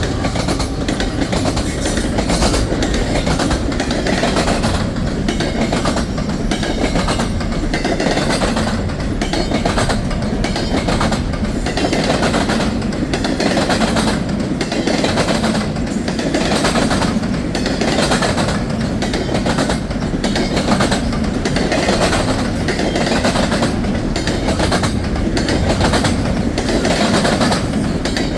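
Freight train cars rolling past at speed: a steady rumble with wheels clicking over rail joints in an even rhythm.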